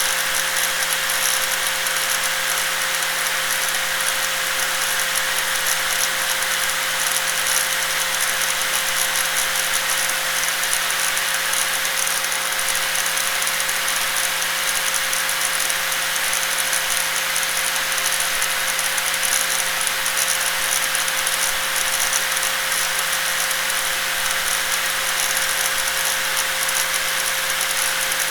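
Electric angle grinder running continuously at steady speed: one constant whine over a dense hiss, with no change in pitch or level.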